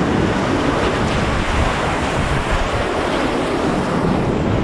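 Loud, steady rush of whitewater as a kayak runs a river rapid.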